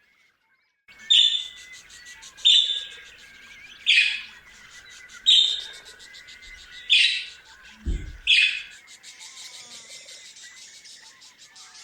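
Budgerigar giving six loud, short, harsh calls, one about every second and a half, over the steady chatter and warble of a budgie flock. A brief low thump falls just before the last call.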